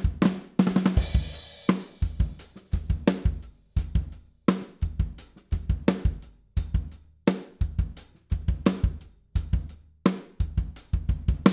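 Recorded acoustic drum kit playing a steady groove of kick, snare and hi-hat, with a cymbal crash about a second in, heard with the spaced-pair overhead microphones in the mix. The playing stops at the very end.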